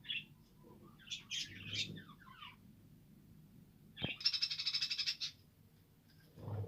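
Budgerigars calling: a short chirp, then warbling chatter about a second in, and a loud, rapid rattling call lasting about a second a little past halfway. A short low muffled sound comes near the end.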